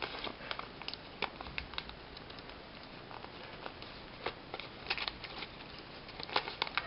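Folded paper crackling and crinkling in the hands as an origami plane is bent and its nose and edges are pressed to collapse inward: scattered small crackles and clicks, bunched a little about a second in, around five seconds in and near the end.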